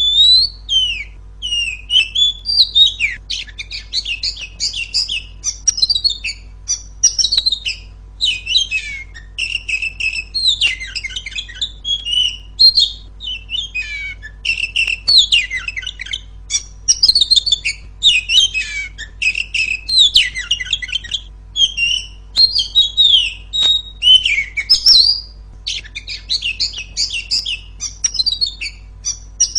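A female Oriental magpie-robin (kacer) singing loud, rapid, continuous song of varied whistles, chirps and trills that starts suddenly and runs with only brief gaps, over a faint steady low hum.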